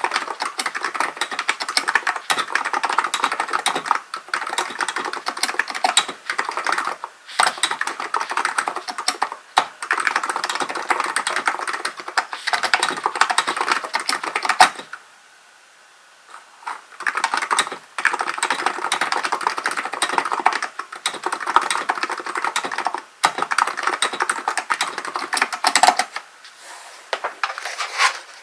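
Hansung GK898B electrostatic capacitive (non-contact) keyboard being typed on in fast, continuous runs of keystrokes, broken by short breaks and a pause of about two seconds about halfway through.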